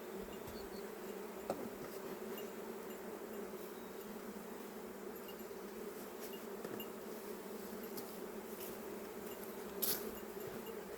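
A honeybee colony in an opened hive buzzing, a steady low hum. There is a brief click about a second and a half in and a short scrape near the end.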